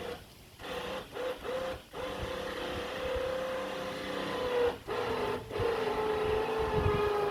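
Electric trailer winch motor whining steadily as it pulls the car, its pitch sagging slowly under load, with several brief stops and restarts.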